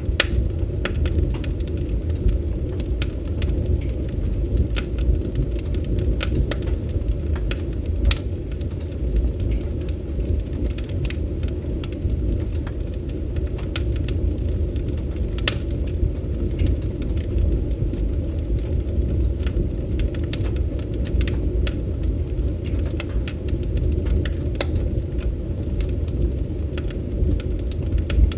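Wood fire crackling: a steady low rumble of burning with frequent irregular sharp pops and snaps.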